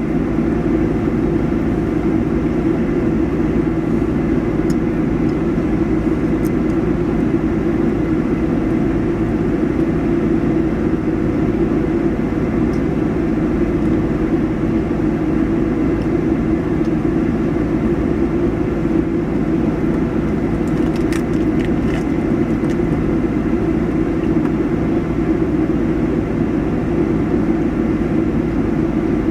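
Vehicle engine running steadily: a constant low drone with a few faint clicks about two-thirds of the way through.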